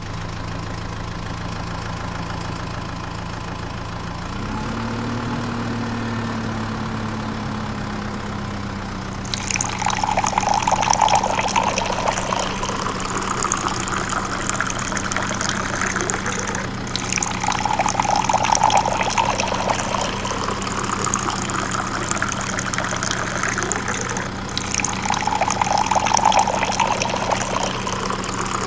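Small motor of a miniature DIY water pump humming steadily, its pitch rising about four seconds in. About nine seconds in, splashing and pouring water starts, swelling louder roughly every eight seconds.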